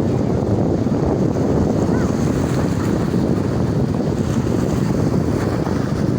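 Sea waves washing on the shore with heavy wind buffeting the microphone, a steady, loud rushing with no breaks.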